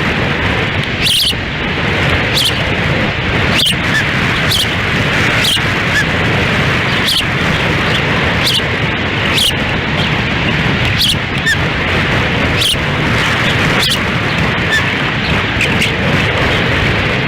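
Heavy wind buffeting the nest-camera microphone as a steady loud rush, with short, high osprey chirps repeating about once a second.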